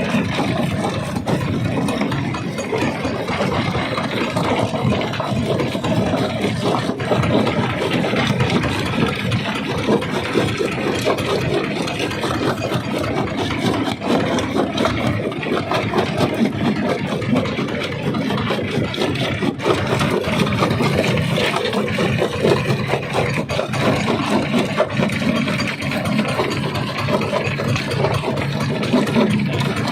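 Primary rock crusher running under load: a steady engine and machinery drone, with continuous rattling and clicking of stone being broken.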